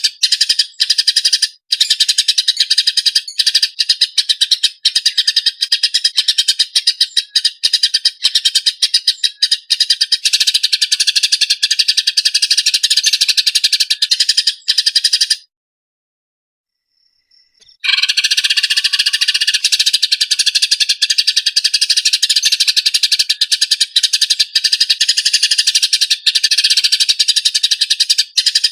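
A small songbird singing a continuous, very rapid trilled rolling song. The song stops for about two seconds roughly halfway through, then resumes.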